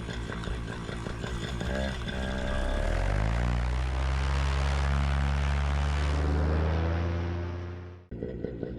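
Paramotor's two-stroke engine and propeller speeding up from a low running speed to high throttle about three seconds in, then holding steady. Near the end it drops away abruptly to a lower, idling engine sound.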